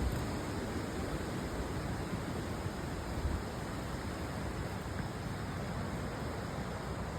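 Steady rushing of the Cheakamus River, an even wash of water noise with no break, and a soft low bump about three seconds in.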